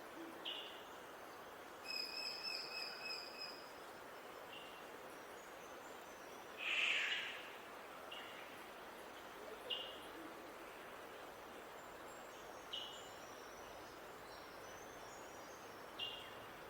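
Wild birds calling over a steady background hiss. A short call note repeats every few seconds. A few clear held whistles come about 2 seconds in, a loud noisy call about 7 seconds in, and quick high twittering near the end.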